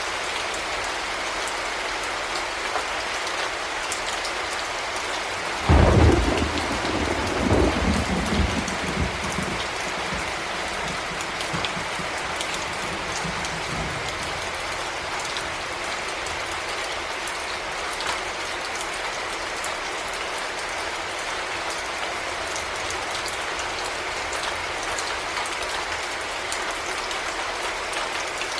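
Heavy rain falling steadily. About six seconds in, a sudden thunderclap breaks, and its rumble fades away over the next several seconds.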